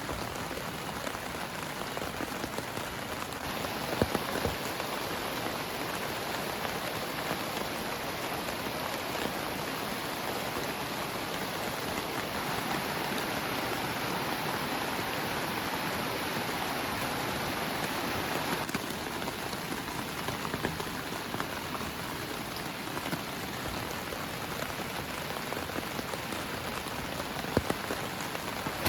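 Heavy rain pouring steadily, with a few sharper, louder drop hits about four seconds in and again near the end.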